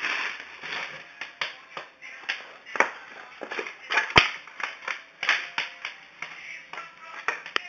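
Firewood burning in the firebox of a brick wood stove, crackling with irregular sharp snaps a few times a second and one loud pop about four seconds in.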